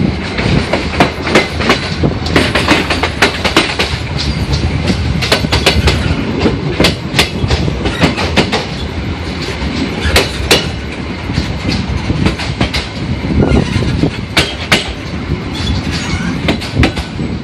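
Yangon Circle Line passenger train running, heard from on board: a steady rumble of wheels on the track with frequent, irregular sharp clacks and knocks from the rails and the carriage.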